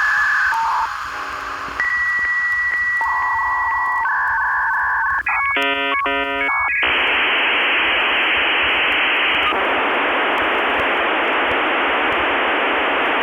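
Dial-up modem connecting over a phone line: a series of steady beeps and warbling tones, a second of clustered chord-like tones about five and a half seconds in, then a loud steady hiss of scrambled data noise.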